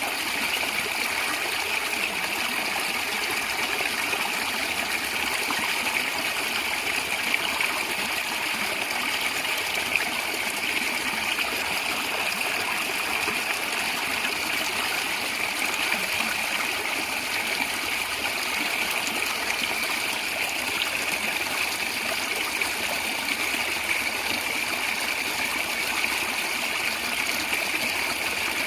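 Stream water gurgling and trickling steadily, an even rushing splash with no pause.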